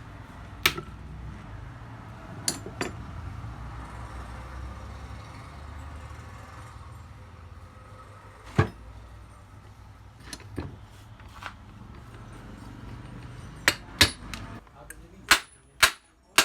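Hammer blows on metal: scattered single strikes, then a quicker run of about two strikes a second near the end. A low steady hum sits under the blows and cuts off shortly before the run.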